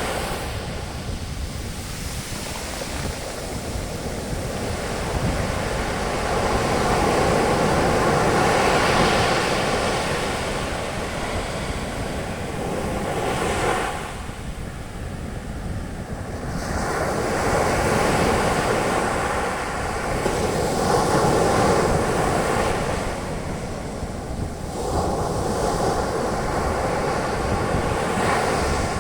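Ocean waves breaking and their foam washing up and draining back on a beach, swelling and ebbing in slow surges every several seconds, with some wind on the microphone.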